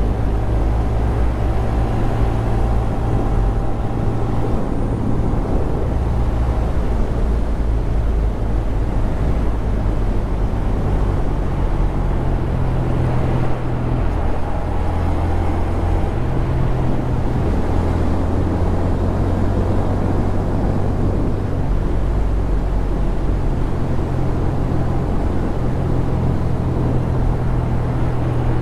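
Honda Grom 125's single-cylinder four-stroke engine running as the motorcycle is ridden, its pitch shifting up and down several times as the engine speed changes.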